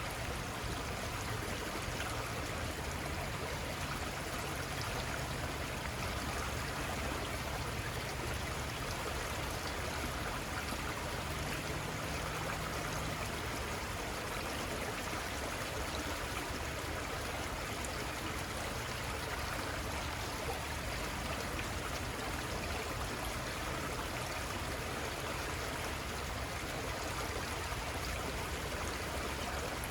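Water of a small river running steadily, an even rush without breaks.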